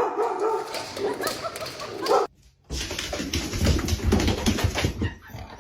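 A dog whimpering and barking, broken by a short silent gap about two seconds in, then a noisier stretch of knocks and rumbling.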